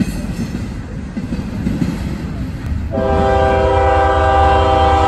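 Freight train rolling past, a rumble of wheels with scattered rail clicks. About three seconds in, a diesel locomotive's air horn starts a long, loud blast sounding several notes at once as a chord.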